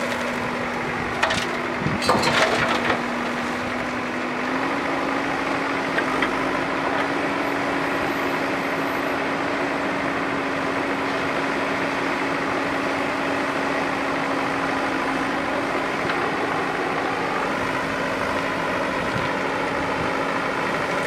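A heavy diesel engine of earth-moving machinery running steadily, its pitch stepping up slightly about four seconds in. A short burst of clattering, crunching impacts comes between one and three seconds in.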